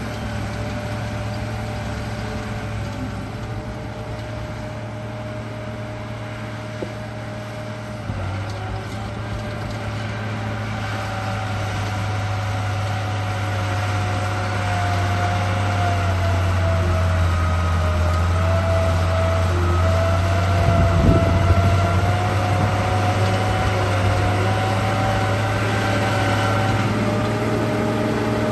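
RC bulldozer running: a steady low hum with a mechanical whine that wavers up and down in pitch as it drives. It grows louder about a third of the way in and stays there, with a couple of small clicks before that.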